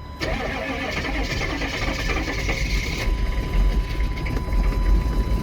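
Cold start of a 1995 Chevy 3500's 6.5 L diesel V8 in chilly weather: the starter cranks for about three seconds, then the engine catches and runs on, sputtery and uneven.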